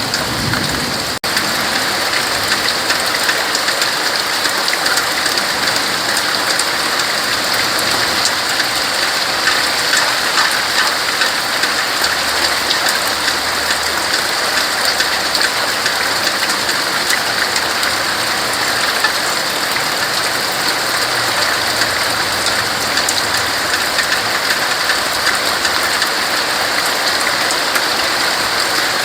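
Steady rain falling on tree leaves: an even hiss of many small drop ticks, with a momentary break in the sound about a second in.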